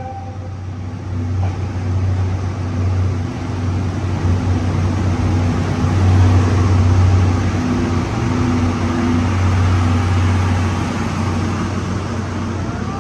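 Train running, a steady low rumble with a faint hum that swells about halfway through.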